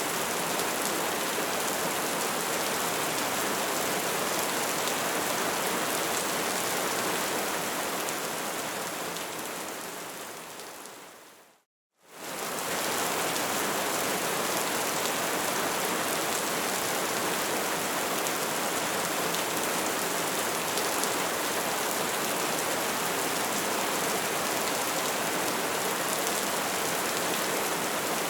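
Wood fire crackling, a dense steady patter of small crackles. It fades away to silence about twelve seconds in, then quickly fades back in.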